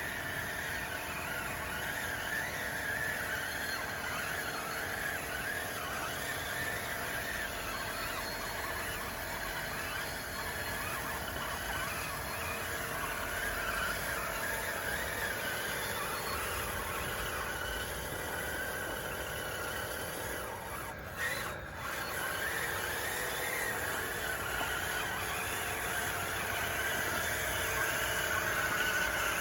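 Whine of an RC bulldozer's drive motors and gearing running, its pitch wavering up and down, with a short break about two-thirds of the way through.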